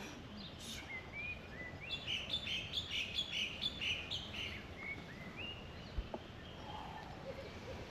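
A bird chirping and calling: scattered high chirps, with a quick run of about eight chirps from about two to four seconds in. There is a single short tap about six seconds in.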